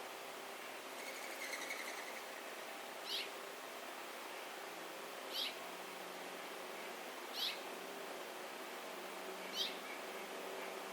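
A bird calling at a feeder: one short, high call repeated about every two seconds, four times, with a faint chatter from another bird about a second in.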